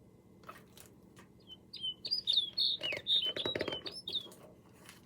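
Recorded snow bunting call played back from a computer: a quick run of short, high chirping notes that slide up and down and last about two seconds. A few faint clicks come before it.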